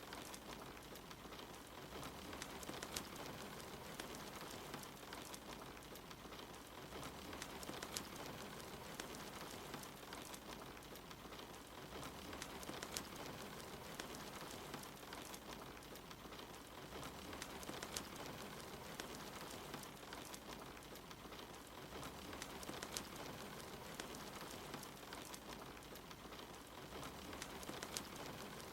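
Steady rain, with a wood fire crackling: scattered sharp pops and snaps over the rain's even hiss.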